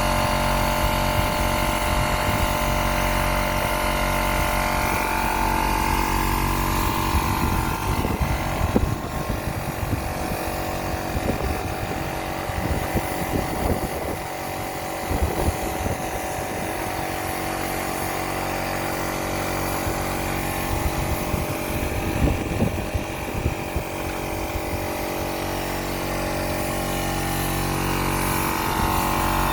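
A motor running steadily, with irregular clatter in the middle stretch.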